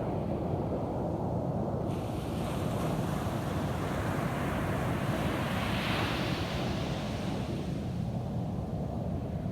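Ocean surf on a beach: a steady low rumble of waves, with one wave's hiss building about two seconds in, loudest around the middle, and washing away near the end.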